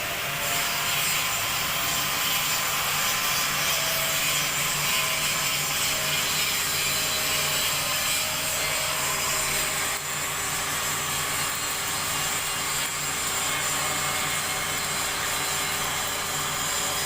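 Wire-cut EDM machine running a cut: a steady hiss with a thin, high whine over it.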